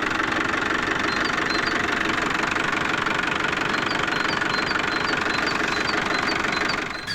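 Small motor of a DIY mini tractor running steadily with a fast, even rattle, fading away near the end.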